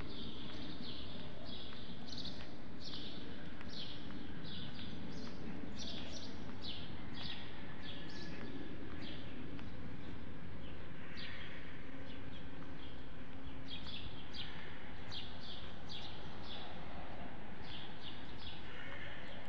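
Small birds chirping over and over, many short high notes that each fall in pitch, over a steady low background rumble of the street.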